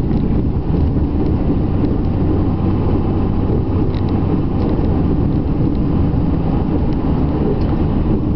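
Dodge pickup's Cummins diesel engine running steadily, a loud continuous low rumble with a steady hum.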